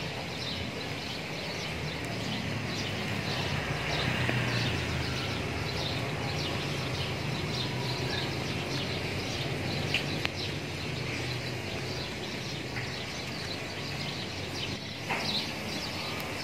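Small birds chirping in many quick, short notes, over a steady low background hum.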